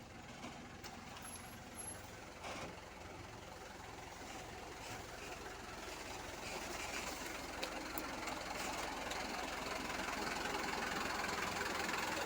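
Long trailer truck creeping along at low speed, its engine and rolling noise growing steadily louder as it draws closer, with a few faint knocks in the first few seconds.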